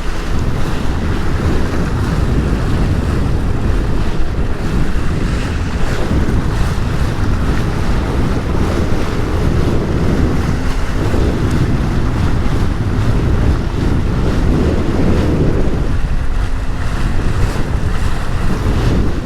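Strong wind buffeting the microphone over waves and rough water, with a Sea-Doo personal watercraft running slowly at trolling speed underneath. The noise is steady and loud, swelling a little about ten seconds in and again about fifteen seconds in.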